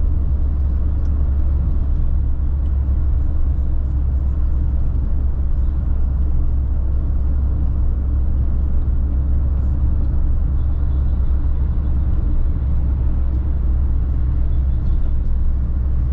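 Steady low rumble of a 2012 Fiat Linea with manual gearbox driving along a highway: engine and road noise at cruising pace, with no change in speed or gear.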